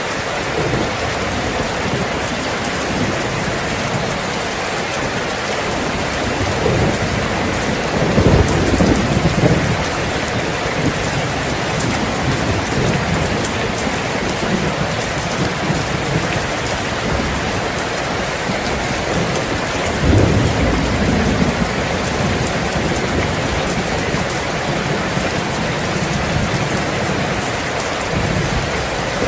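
Steady heavy rain, with rolls of distant thunder rumbling twice: once about eight seconds in and again about twenty seconds in.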